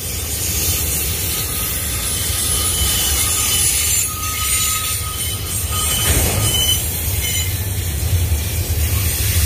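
Double-stack intermodal freight cars rolling past: a steady low rumble of steel wheels on the rail, with faint thin wheel squeals in the middle.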